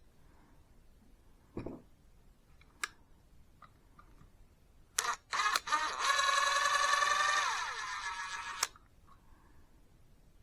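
Power drill driving a hole saw: two quick trigger blips, then about three seconds of steady motor whine that sags in pitch before cutting off with a click. A dull thud and a few light clicks come before it.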